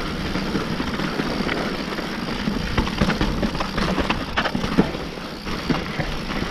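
Mountain bike descending a steep, loose dirt trail: tyres crunching over gravel and rocks under a steady rush of noise. From about two and a half to six seconds in, a run of sharp clatters and knocks as the bike rattles over rough ground.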